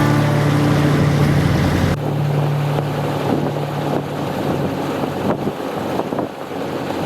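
Motor-driven sailboat under way: a steady low engine drone with wind noise on the microphone and the rush of water along the hull. About two seconds in the sound changes abruptly and the drone drops back, leaving mostly wind and water.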